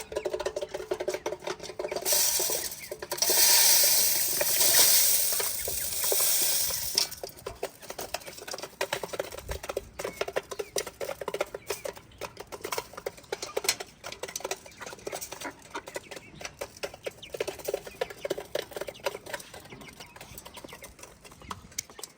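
Newly hatched chicks moving about and pecking: many light, quick taps and scratches, with a louder rustling noise from about two to seven seconds in.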